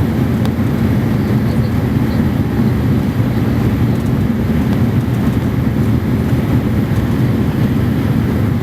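Steady loud drone of a Fokker 50 turboprop heard inside the cabin, its propellers and engines running without a break.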